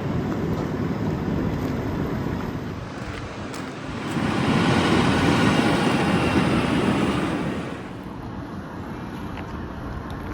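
Rumbling noise of a vehicle or machine running, growing louder for a few seconds in the middle and then easing off.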